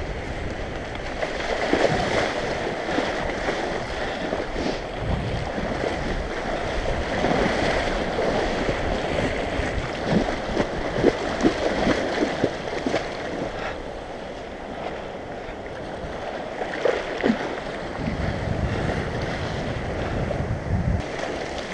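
Surf washing onto the beach, with wind buffeting the microphone in gusts and a few sharp knocks about halfway through.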